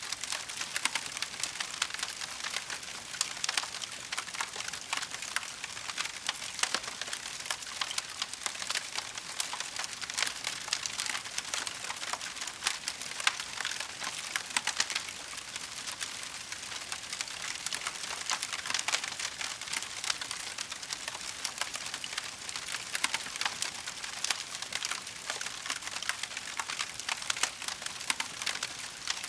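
Wood fire crackling steadily: a dense patter of small pops and snaps over a soft hiss, with a few sharper cracks scattered throughout.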